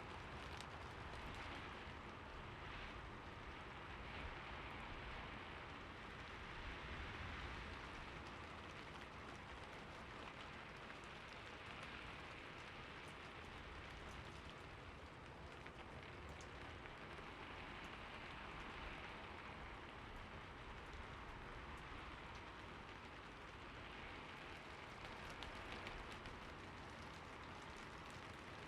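Steady rain falling, an even hiss with scattered individual drops ticking and gentle swells in intensity.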